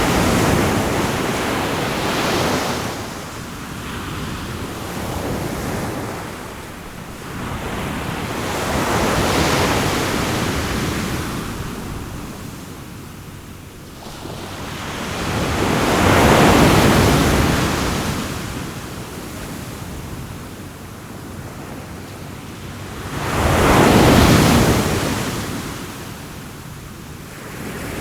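Sea waves washing onto the shore in slow swells, each rising and falling away over a few seconds. The biggest swells come just after the middle and again near the end.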